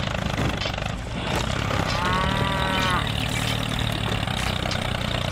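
Steady hum of a small motor driving a model tractor. About two seconds in, a short pitched call, moo-like, rises and falls over it for about a second.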